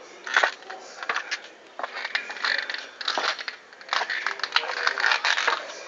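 Adidas sneakers squeaking repeatedly with a duck-like quack, amid crunching and clicking from the shoes.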